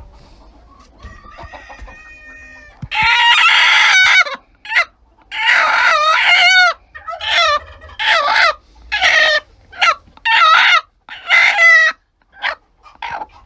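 Chicken calling: a few faint calls, then from about three seconds in a run of about ten loud calls with wavering pitch, each lasting under a second or so.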